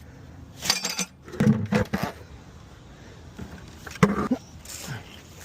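A few sharp metallic clanks and rattles: one near the start, a quick cluster about a second and a half in, and another about four seconds in, with a brief metallic ring after some of them.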